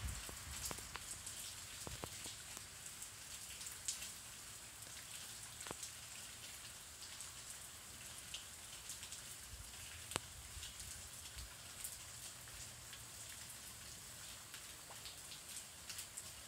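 Rain falling during a thunderstorm: a faint, steady hiss with scattered sharp drips and taps.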